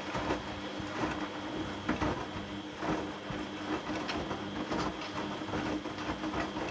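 Washing machine running, its drum turning with laundry inside: a steady hum with soft, irregular thumps and swishes of tumbling clothes about once a second. The drum turns freely, without the straining or scraping noise it had before the fix.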